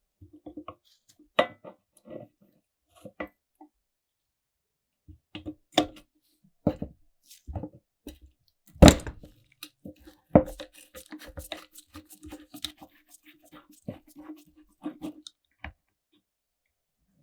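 Tools and small metal parts being handled on a workbench: scattered clicks and knocks, the loudest a sharp knock about nine seconds in. A low hum comes and goes through the middle stretch.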